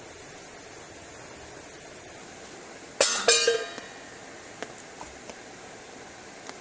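Two or three sharp clinks of hard objects, metal or glass, struck together about three seconds in, with a brief ring, followed by a few faint taps, over a steady hiss of rain.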